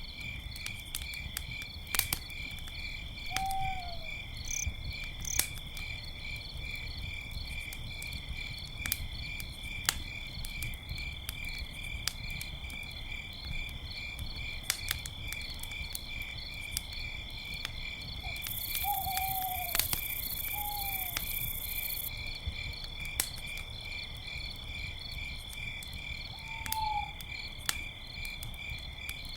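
Campfire crackling with scattered sharp pops over a low rumble, under a steady pulsing chorus of crickets. A few short, falling owl hoots come through at intervals, and a few seconds of hiss rise past the middle.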